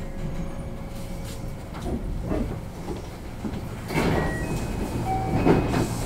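JR West 321 series electric train rolling slowly to a stop at a platform, with low rumbling and a few knocks. About four seconds in it gets louder, with a burst of noise and some brief tones as the doors slide open.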